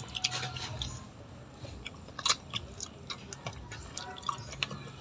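A person eating close to the microphone: irregular chewing clicks and crunches, with one sharper click about two seconds in.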